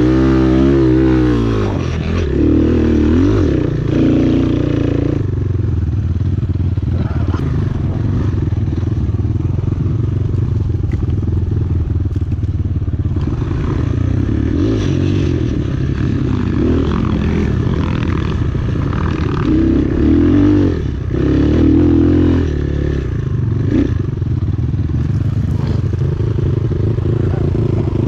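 Enduro motorcycle engine running loud and close, its revs rising and falling repeatedly as the bike is ridden.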